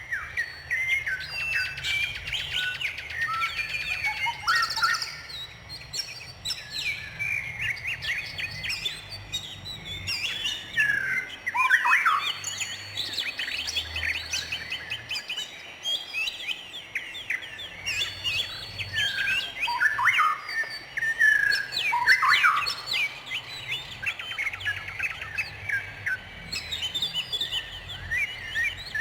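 Several songbirds chirping and singing at once, a dense, continuous mix of quick chirps, rapid trills of repeated notes and downward-sweeping whistles. The loudest calls come about twelve seconds in and again around twenty-one seconds.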